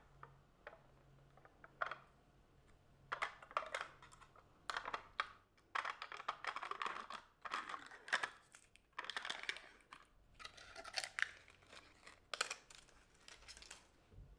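Paper being handled: rustling and crinkling with small clicks and taps, coming in irregular bursts.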